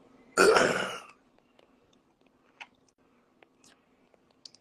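A person's short, loud vocal sound, under a second long, starting about half a second in, followed by a few faint clicks.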